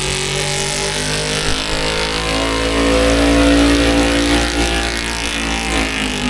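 Modified pulling truck's engine running loud and revving, a little louder in the middle before easing back.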